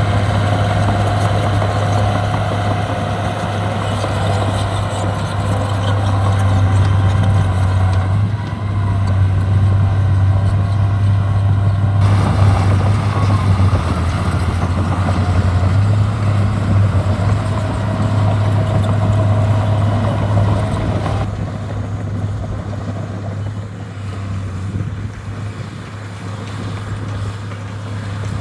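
Heavy diesel earthmoving equipment running steadily with a deep drone. A fainter high whine comes and goes, and the sound changes abruptly a few times.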